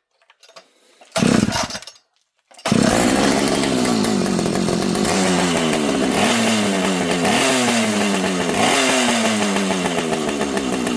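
Two-stroke chainsaw on a pull start: it fires briefly about a second in, dies, then catches and runs from about two and a half seconds in. Its engine speed keeps sagging and jumping back up instead of settling: the saw won't idle, which the owner puts down to a wrong carburetor with no idle screw.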